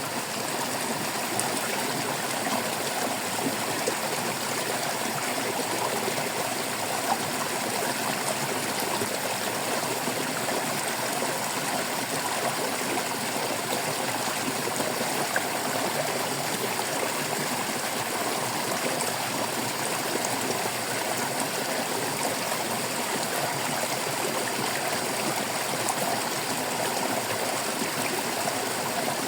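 Shallow stream burbling and trickling over stones, a steady, even flow of running water.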